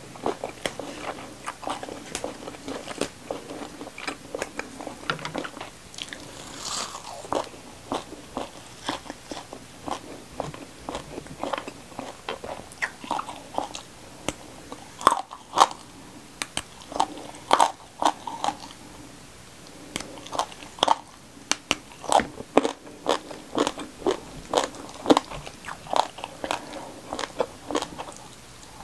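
Close-miked chewing and crunching of a mouthful of food, with many short, sharp crunches. From about halfway through the crunches grow louder as raw rimbang (pea eggplant) berries are bitten off their stem.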